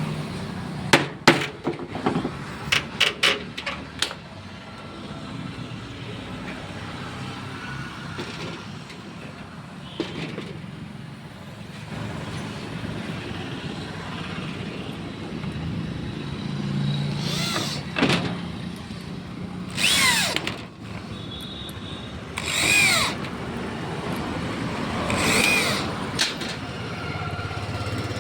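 A quick run of sharp knocks, like hammer blows on wood, about one to four seconds in, over steady background noise. Later come a few louder bursts with sliding high-pitched tones.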